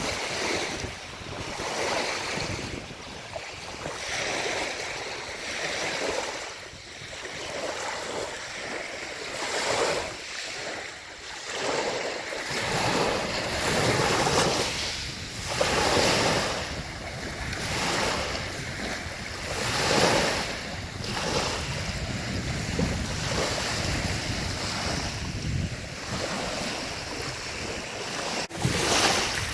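Lake waves washing onto the shore, the surf swelling and falling every few seconds. Wind rumbles on the microphone, mostly in the second half.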